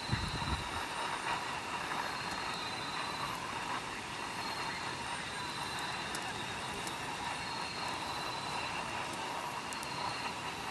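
Wood campfire burning: a steady rushing noise with scattered small crackles and pops, and a brief low rumble right at the start.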